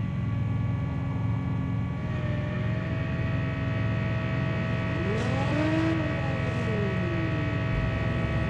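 Steady mechanical drone with a pitched hum. About halfway through, a tone glides up and then back down over a couple of seconds.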